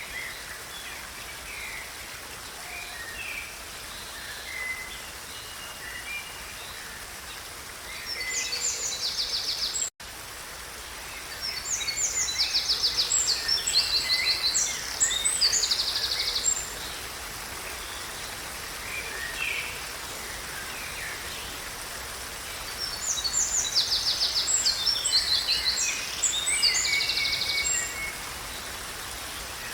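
Wild birds singing over a steady background hiss: scattered short chirps, with bouts of loud, rapid trilled song about eight seconds in, from about eleven to seventeen seconds, and again near the end. The sound cuts out for an instant about ten seconds in.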